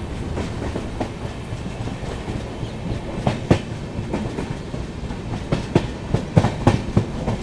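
Mewar Express passenger coaches running along the track, heard from outside the coach side: a steady rumble with sharp clicks of wheels crossing rail joints, which come more often and louder in the second half.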